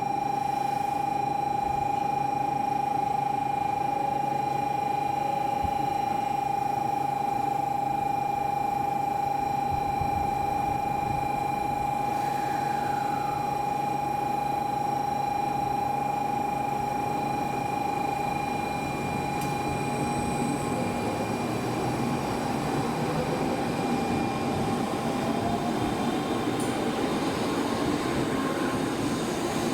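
N700S Shinkansen train pulling out of the station, its running noise building over the last ten seconds or so as it gathers speed. A steady high tone sounds through the first two-thirds and fades out about twenty seconds in.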